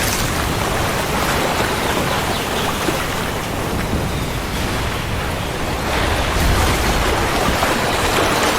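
Steady heavy rain with a low rumble of thunder that swells about six seconds in.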